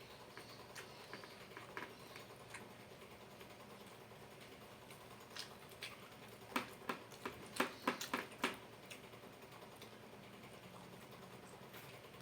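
Crunching and chewing of crispy fried chicken close to the microphone: scattered small crunches, then a run of louder crunches about six and a half to eight and a half seconds in.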